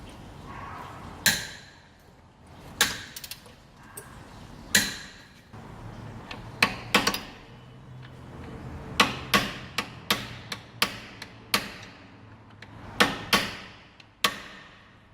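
Hammer striking metal: about fifteen sharp blows at uneven intervals, coming faster in the second half, each with a short metallic ring.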